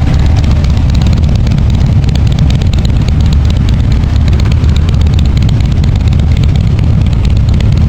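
Motorcycle engine running steadily at road speed, a constant low rumble, with wind buffeting the microphone.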